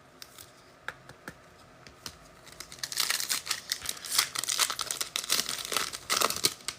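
A few faint clicks, then about two and a half seconds in a foil trading-card pack wrapper is torn open and crinkled, a dense run of crinkling that lasts about four seconds.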